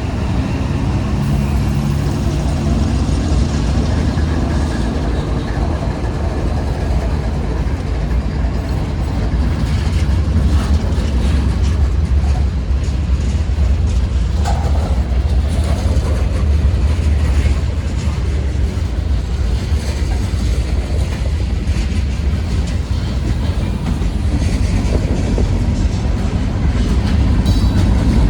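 Freight train rolling past with a steady low rumble and scattered clicks from the wheels.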